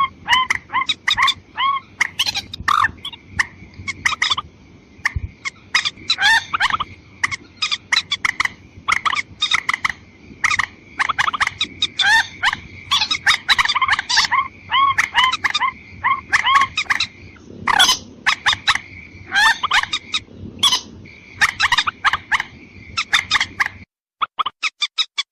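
Bird lure recording of a rail (mandar) calling: fast runs of short, repeated, bending calls with brief gaps between runs, over a steady thin high tone. Near the end the background drops out abruptly and a few more calls follow.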